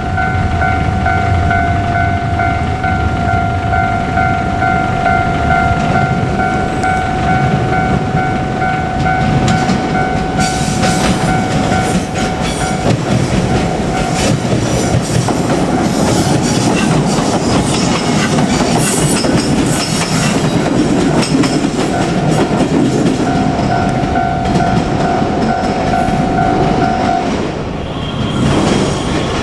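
Japanese level crossing's electronic warning bell ringing steadily, then a JR Kyushu 817 series electric train runs over the crossing from about ten seconds in, its wheels clattering over the rail joints for most of the rest; the bell stops shortly before the end.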